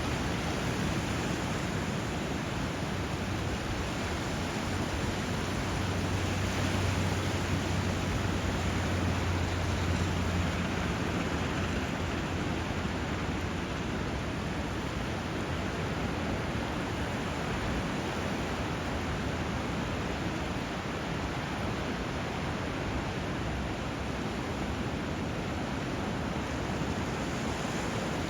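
Steady rush of flowing water and surf where a river runs into the sea, swelling a little about six to ten seconds in.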